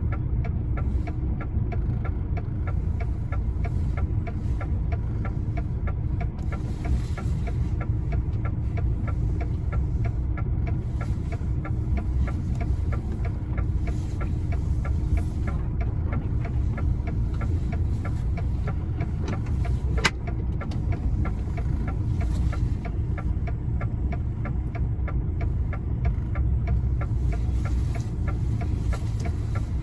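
Heavy truck's diesel engine running steadily at low revs, heard from inside the cab, with a fast, even ticking over the low rumble. A single sharp click about twenty seconds in.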